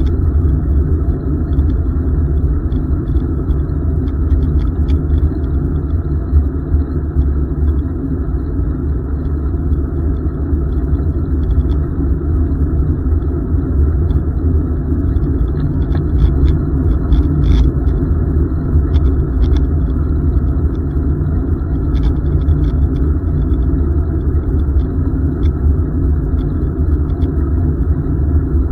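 Steady low wind rumble on the microphone of a camera riding on a moving bicycle, mixed with the bike's rolling noise, with a few faint ticks.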